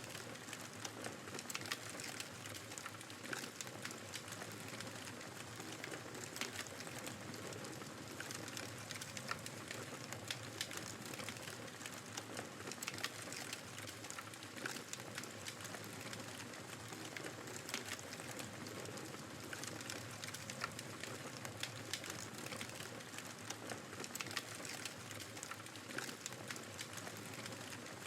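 Wood fire crackling with frequent small, irregular pops over the steady hiss of blizzard wind.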